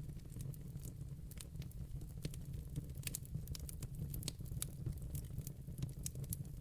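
Wood fire burning in a fireplace: a steady low rumble of flames under frequent irregular sharp crackles and pops.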